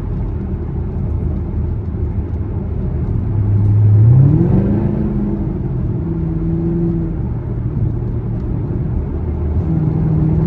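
Camaro SS V8 engine and exhaust droning at a steady cruise, then accelerating about four seconds in with a smooth rise in pitch and loudness, before settling into a steady, higher drone.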